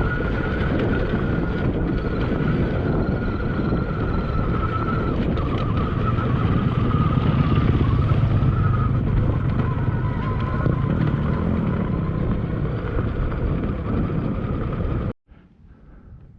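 Admitjet Armor electric dirt bike's motor whining as it rides, the pitch drifting up and down with speed, under heavy wind buffeting on the microphone. It cuts off suddenly near the end.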